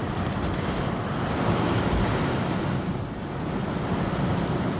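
Steady rushing noise inside a moving car in a thunderstorm, from the tyres and the rain.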